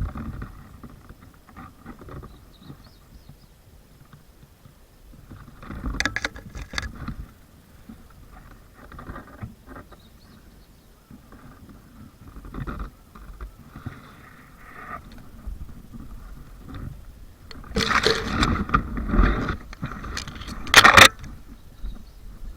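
Rustling and scraping of a player's clothing and gear as they move through cover, with scattered sharp knocks and a louder stretch of scraping and clatter near the end.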